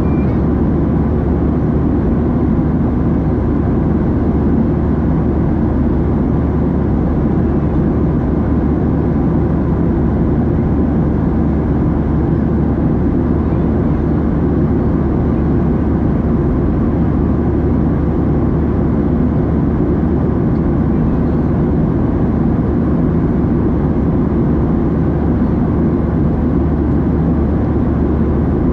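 Steady cabin roar of a Boeing 737-700 in flight, heard from a window seat: the CFM56-7B turbofan engines and the airflow over the fuselage make an even, low, unchanging rumble.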